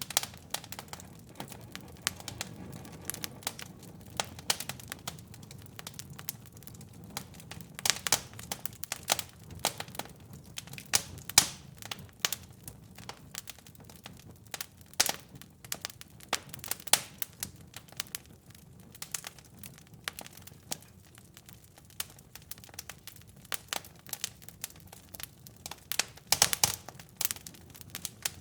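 Wood fire crackling: irregular sharp pops and snaps over a low, steady rumble of the flames, with a burst of louder pops near the end.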